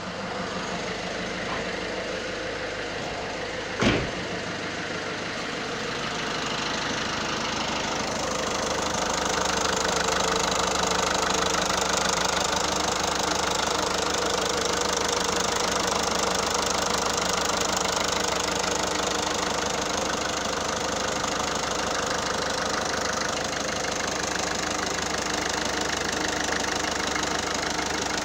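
Peugeot 308 1.6 HDi diesel engine running at idle with a steady mechanical noise that the owner feels has changed; a Peugeot dealer mechanic puts it 80% down to a worn flywheel, while another mechanic calls it normal for the 1.6 HDi. A single sharp click sounds about 4 s in, and the engine noise grows louder and brighter a few seconds later, then holds steady.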